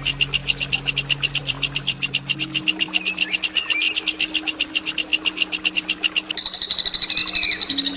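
A songbird giving a long, fast rolling trill of about ten sharp high notes a second. Near the end it breaks into a harsh, buzzy held note.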